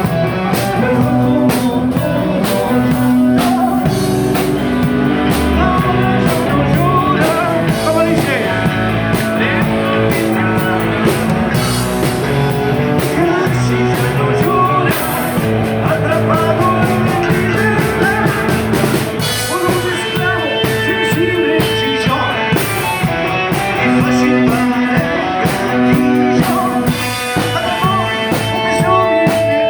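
Rock band playing live, with electric guitars, bass and a drum kit, a voice singing over them at times.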